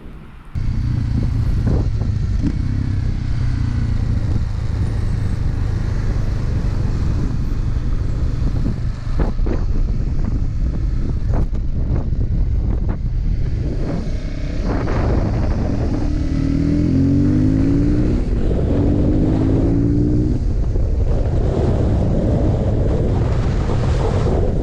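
Motorcycle riding along, its engine running steadily under heavy wind rush on the microphone. Between about 16 and 20 seconds the engine pitch rises in a few short sweeps as it accelerates.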